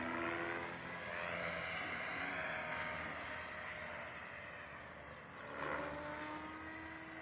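Align T-Rex 500X electric RC helicopter in flight: motor and gear whine over the rush of the rotor blades. The pitch of the whine slowly glides up and down, and the sound swells briefly about five and a half seconds in.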